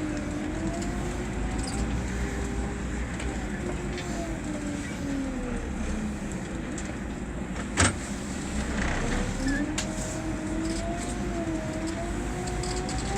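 Scania K 320 bus's diesel engine pulling under way; its note rises, falls away, then climbs again. There is a single sharp knock about two-thirds of the way through.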